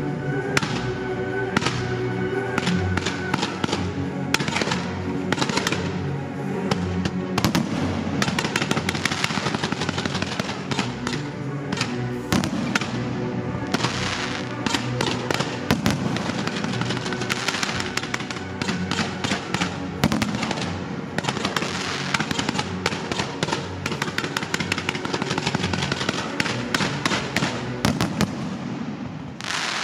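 Fireworks display: a dense stream of bangs and crackling bursts going off over music played over loudspeakers as part of a pyromusical show.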